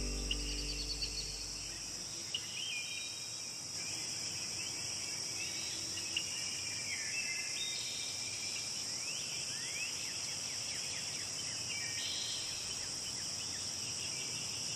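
Steady high-pitched insect chorus with many short bird chirps and trills over it. The tail of background music fades out in the first two seconds.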